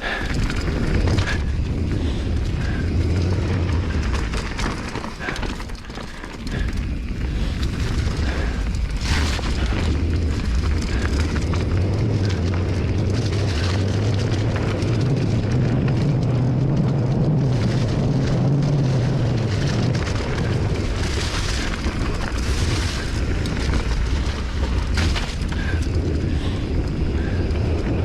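Steady low rumble of wind buffeting the microphone and trail noise while riding the trail, with a few short knocks and rattles from the bike over rough ground.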